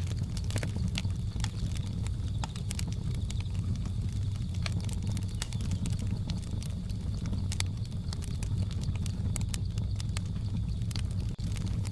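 Wood fire crackling, with irregular sharp pops and snaps over a steady low rumble, mixed with a faint steady high-pitched drone of jungle ambience.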